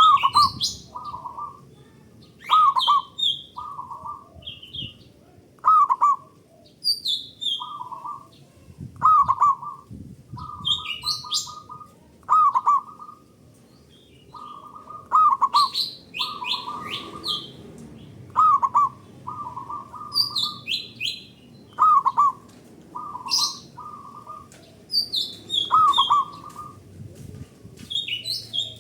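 Zebra dove (perkutut) singing its cooing song over and over, each phrase a sharp opening note followed by a quick run of short coos, repeating every second or two. Higher chirps of small birds sound between and over the phrases.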